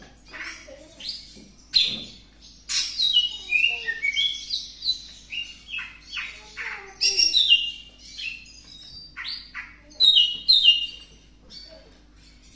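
Green leafbird (cucak ijo) singing a varied, chattering song of quick high whistled phrases, many of them sliding down in pitch, in bursts with short gaps. It is a bird in breeding condition, singing to court a mate.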